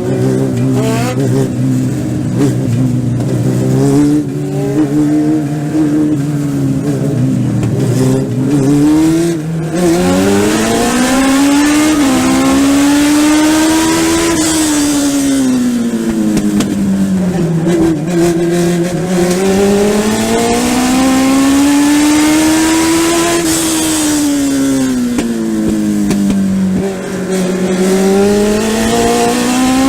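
Legend race car's Yamaha motorcycle engine running hard, heard from onboard: a fairly steady, lower note for about the first eight seconds, then revs climbing and dropping in long sweeps about every nine seconds as the car accelerates and lifts around a short oval.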